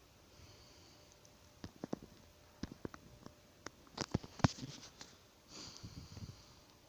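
Small twig campfire crackling: irregular sharp pops and snaps, the loudest about four and a half seconds in, with a short rustling hiss near the end.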